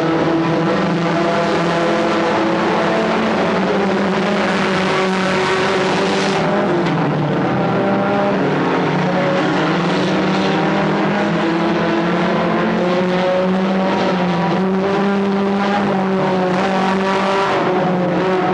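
Stock car engines running at racing speed, several engine notes at once, their pitch drifting up and down slightly.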